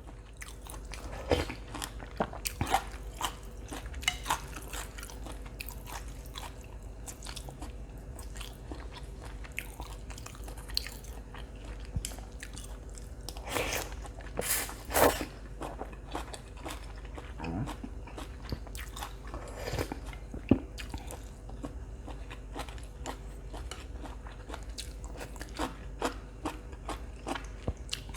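A person eating chicken glass noodle soup close to the microphone: chewing and biting sounds with scattered small clicks. There are a few louder mouth noises about halfway through.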